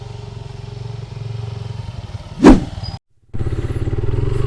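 Motorcycle engine running steadily at low throttle, with one loud sharp knock about two and a half seconds in. The sound cuts out for a moment just after, then the engine carries on a little louder.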